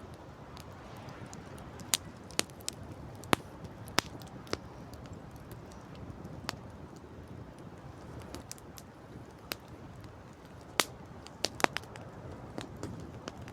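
Campfire crackling, with sharp irregular pops and snaps now and then, over a steady rush of wind and sea.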